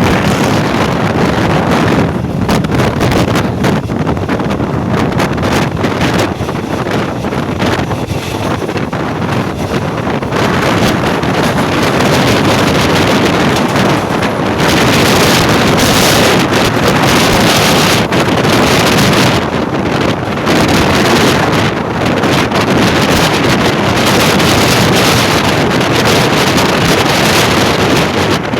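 Wind buffeting the microphone over the steady running noise of a moving passenger train, growing a little louder and brighter about halfway through.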